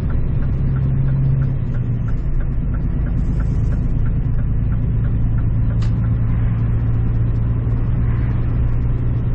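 Scania truck's diesel engine droning steadily while driving, heard inside the cab; its pitch steps down slightly about two seconds in. A light ticking, about three times a second, runs alongside and stops about six seconds in.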